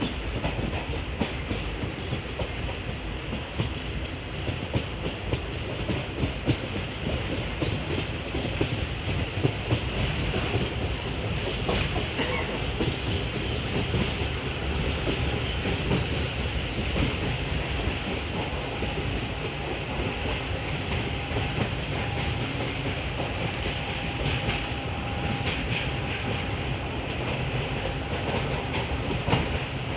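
Passenger train running along the track: a steady rumble with the clatter of the wheels over the rails.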